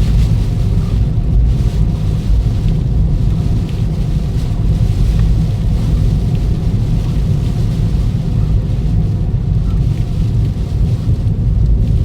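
Steady low rumble of a Toyota Ractis on the move, engine and road noise heard inside the car.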